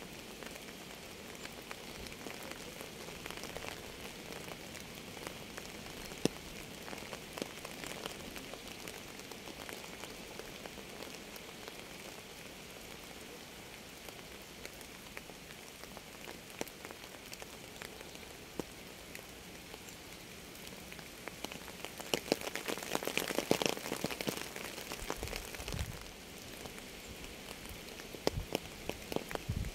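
Rain falling steadily, with many sharp individual drop hits over the even patter. About two-thirds of the way through, a louder, denser spell of close drips lasts a few seconds and then stops suddenly.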